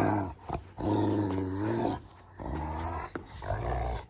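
Rottweiler growling loudly in several drawn-out, pitched growls with short breaks between them.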